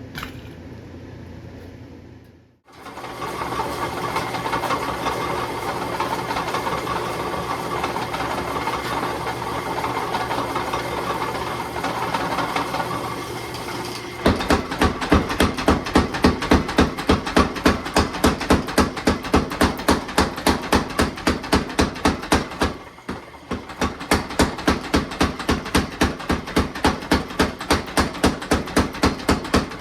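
Steel being forged under fast, evenly spaced hammer blows, about three a second, starting about halfway through and pausing briefly near the end. Before the blows there is a steady roaring hum.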